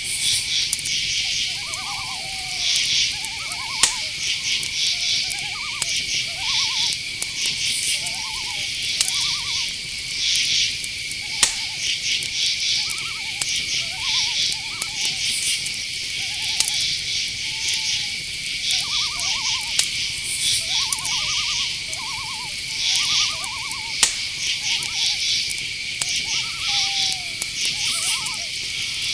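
Night chorus of crickets: one steady high chirring and pulsing insect trills over it. Many short, hooked calls from some other animal are scattered through it, with a few sharp clicks.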